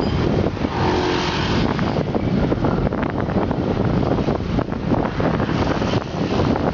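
Wind buffeting the microphone over a steady rumble of road traffic, with faint brief tones about a second in.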